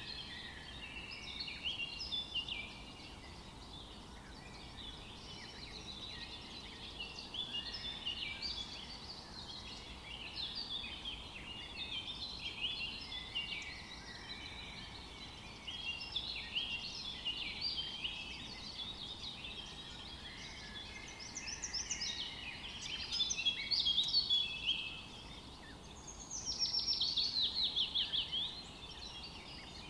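Several songbirds chirping and singing at once in a forest chorus, over a faint steady hiss. Near the end one bird gives a fast trill of repeated falling notes lasting about two seconds.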